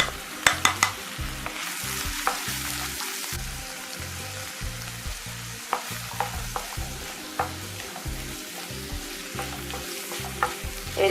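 Onion, tomato, garlic, ginger and green chillies frying in coconut oil in a hot pan and being stirred: a steady sizzle with scattered clicks and scrapes of the spoon on the pan. The sizzle grows louder for a second or so about two seconds in, as curry leaves and spice powders go into the oil.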